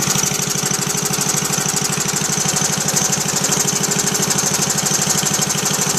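1937 Briggs & Stratton Model Y single-cylinder air-cooled gas engine running steadily, with a rapid, even firing beat. It is a parts engine brought back to life with good compression and freshly cleaned ignition points.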